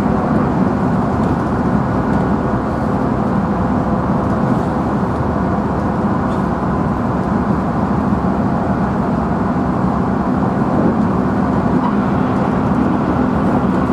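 JR Central 311 series electric train running at a steady speed, heard inside its motor car: continuous wheel-on-rail rumble with a steady hum from the traction motors.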